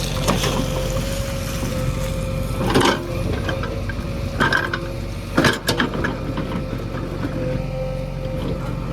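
JCB 3DX backhoe loader's diesel engine running steadily under work with a constant tone over it, broken by several metallic clanks and knocks, the loudest a cluster about five and a half seconds in.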